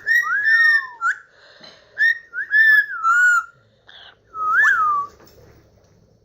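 Parrot whistling: a string of short, loud whistles, several sliding down in pitch, that stop about five seconds in.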